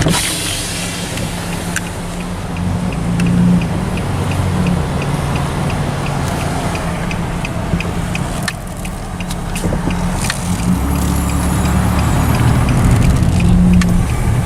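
Car driving, a steady low engine and road hum, with light regular ticking about twice a second through the first half or more.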